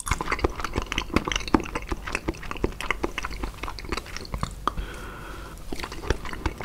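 Close-miked chewing of food in the mouth: a steady run of wet smacks and small clicks.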